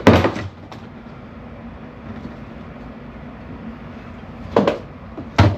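Three sharp knocks, one at the very start and two close together near the end, over a steady low hum.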